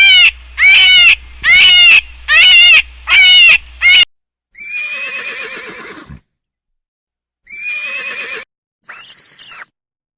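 Farm animal calls in quick succession: five loud, short calls about a second apart, then a longer call, a shorter one and a brief high-pitched cry, each cut off abruptly.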